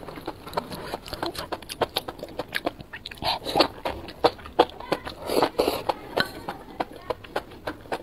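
Close-miked eating of enoki mushrooms in chili sauce: a fast run of wet mouth clicks and smacks from chewing, with two longer slurps about three and five seconds in.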